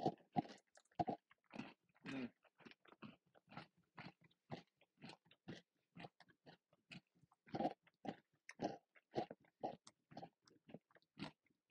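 Close-up chewing of a crocante, a hard, crunchy toffee nugget in a chocolate shell: a steady run of crunches, about two or three a second.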